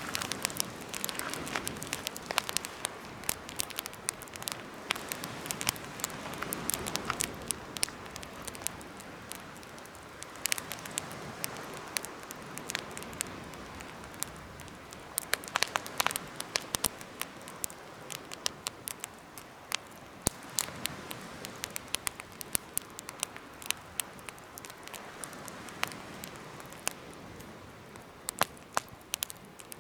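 Campfire burning in a homemade fire stand, with irregular sharp crackles and pops over a steady soft hiss of flame.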